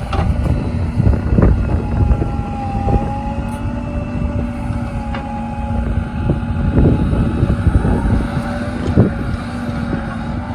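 Diesel engines of a backhoe loader and tractors running steadily, with a low hum, a faint whine and scattered knocks.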